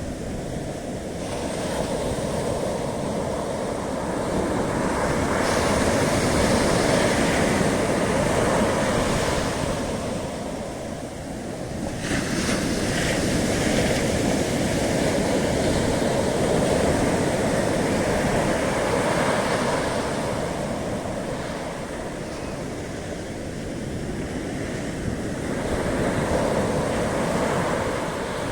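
Ocean surf breaking and washing up on a beach, swelling and falling back in three long surges.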